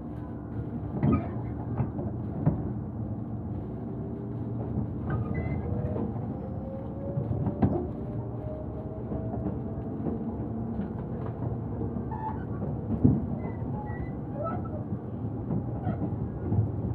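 Inside a Tobu Urban Park Line commuter train in motion: a steady rumble of wheels on rails with irregular knocks and jolts from the track. A motor whine rises in pitch through the middle of the stretch as the train picks up speed.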